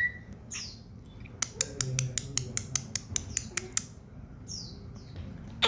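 Pet common iora calling with quick, high, downward-sweeping whistled notes. In the middle there is a run of about a dozen rapid dry clicks, about six a second, lasting a couple of seconds.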